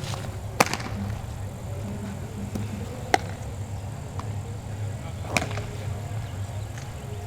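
Three sharp smacks of baseballs at practice, about two and a half seconds apart, over a steady low hum.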